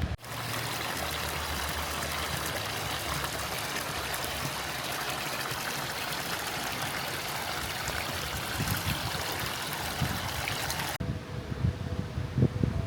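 Steady, even rush of running water that starts abruptly and cuts off suddenly near the end, after which wind buffets the microphone.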